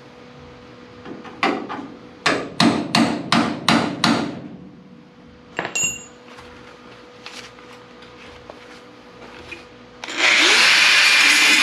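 Hammer blows on the steel of an old car door hinge: a run of about seven quick strikes, then a single ringing metallic clink. Near the end a power tool starts up and runs loud and steady.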